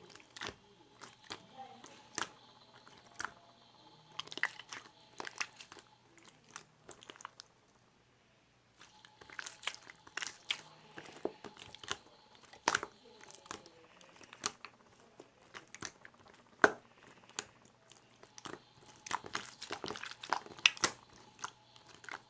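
A quick, irregular run of sharp clicks and crunchy taps close to the microphone, with a short pause about eight seconds in.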